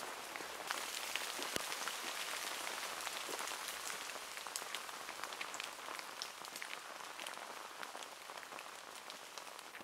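Light rain pattering steadily on hedge leaves and a wet lane: a fine even hiss dotted with small ticks, easing slightly toward the end.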